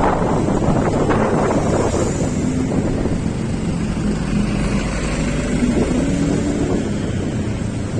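Wind buffeting the microphone on a moving vehicle, with a faint engine hum underneath that shifts in pitch midway.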